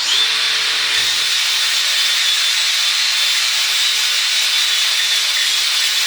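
Angle grinder fitted with a flap disc, switched on and grinding the steel face of an anvil. It is loud and steady: a constant high whine over the hiss of the disc on metal, starting suddenly at the outset.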